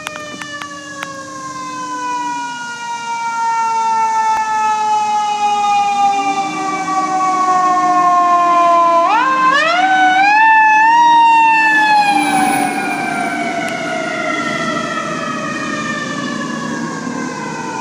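Fire truck siren winding slowly down in pitch, spun back up quickly about halfway through, then winding down again. Under it a steady low horn tone sounds twice.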